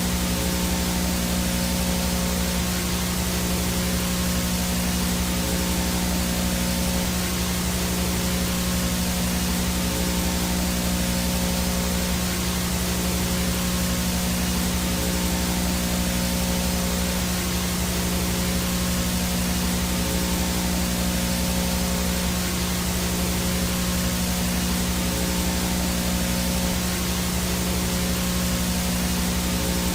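Analog VHS static with no signal: a steady, even hiss with a low buzzing hum underneath and a faint high whine, unchanging throughout.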